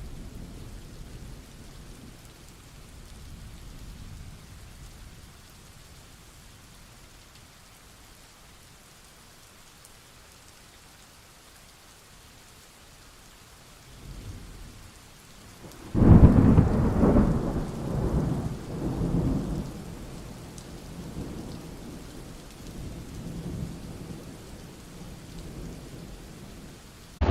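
Thunderstorm: steady rain, with a loud clap of thunder about sixteen seconds in that rumbles on and fades in waves over several seconds, after a faint rumble just before it.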